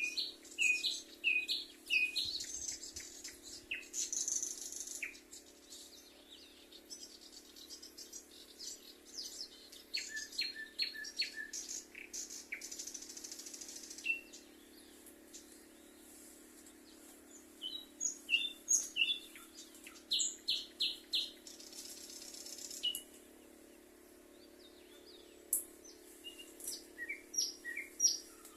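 Small songbirds chirping and calling in short, quick series of notes, coming in clusters, over a steady low background rush.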